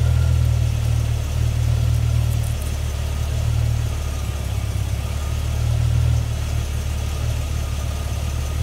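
1990 Jeep Wagoneer's engine idling, a steady low hum.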